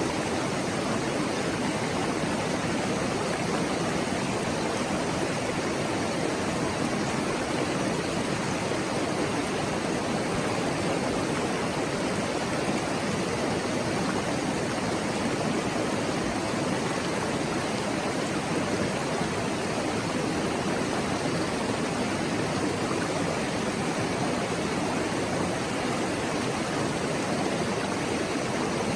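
Shallow mountain stream babbling over rocks: a steady, unbroken rush of water.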